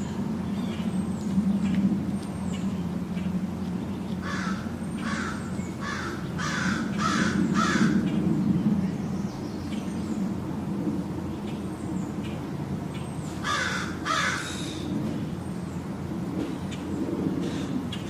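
A bird giving harsh, crow-like caws: a run of about six calls a few seconds in, then two more later. Small birds chirp faintly and high, over a steady low hum.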